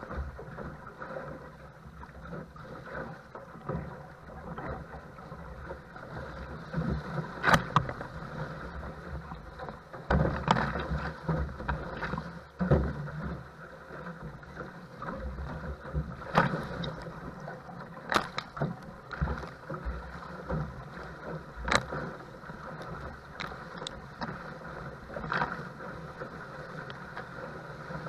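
Choppy wind-driven water washing and slapping against a paddle craft's hull, with sharp slaps every few seconds as it smashes down on oncoming waves.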